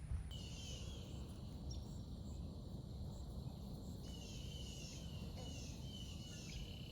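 Birds chirping outdoors: short falling notes repeated in quick runs, mostly in the second half, over a steady low rumble of background noise.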